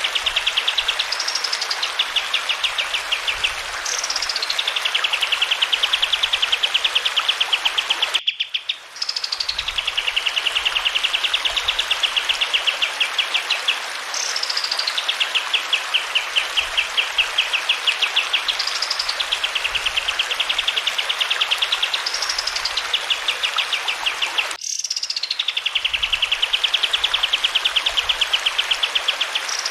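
Kapas tembak bird singing: a fast, even rattling trill, each phrase opening with a high note that sweeps down into it, repeated every few seconds over the steady hiss of running water. The recording breaks off abruptly twice and restarts, as at the seam of a loop.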